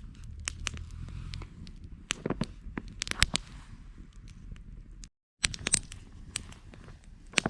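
Wood campfire crackling, with frequent sharp pops and snaps over a low rumble of the flames. The sound cuts out completely for a moment about five seconds in.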